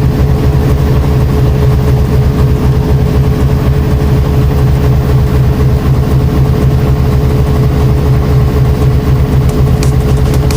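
Washing machine motor running with a loud, steady low hum and a fast, even throb.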